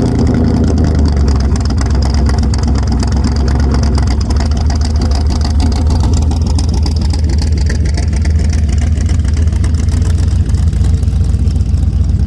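A 6.0-litre LQ4 V8 with a stage 4 Summit cam idling steadily through open headers.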